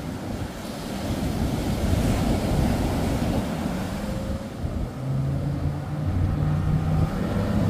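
Surf breaking and wind buffeting the microphone, a steady rushing noise. About five seconds in, a low, steady engine hum comes in under it.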